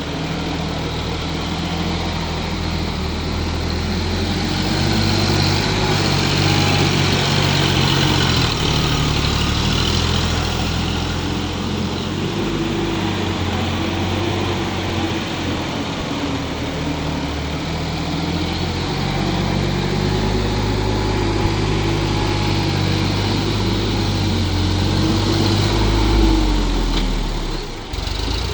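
Sonalika DI 50 RX tractor's diesel engine running steadily, its pitch drifting slightly up and down, with a brief drop in loudness near the end.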